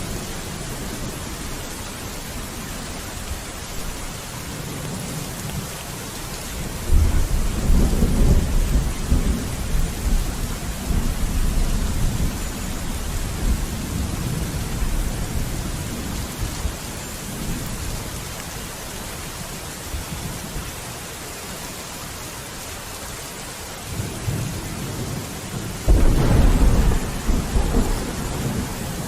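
Steady heavy rain with thunder. A low roll of thunder breaks in suddenly about a quarter of the way through and rumbles on for several seconds, and a second sudden rumble comes near the end.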